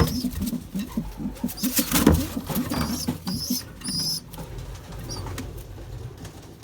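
Pigeons cooing in a loft: a low, quickly repeated coo in the first couple of seconds, then a few short high squeaks.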